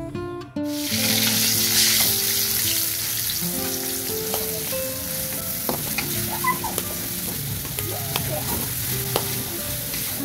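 Spice paste of shallot, garlic, chilli and ginger sizzling in hot oil in an aluminium wok, stirred with a metal spatula, with a few ticks of the spatula against the pan. The sizzling starts about half a second in.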